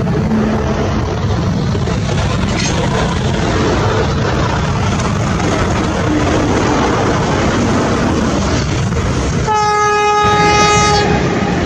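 Express train running along the track with a steady rumble of wheels on rail. Near the end, its WAP-4 electric locomotive's horn sounds one steady blast of about a second and a half.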